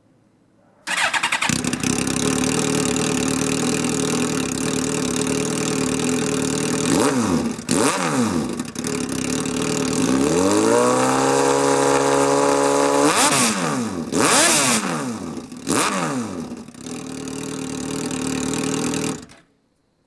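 Suzuki GSX-R 1000's inline-four engine through a custom twin-muffler exhaust, starting about a second in and idling. It is revved in quick throttle blips a few times, held at raised revs in the middle, then settles back to idle before stopping abruptly near the end.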